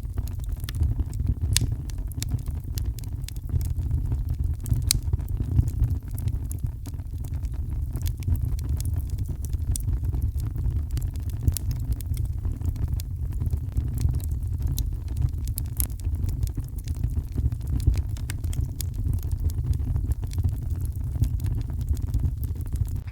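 Fireplace fire crackling with scattered sharp pops over a steady deep rumble, mixed with steady rain.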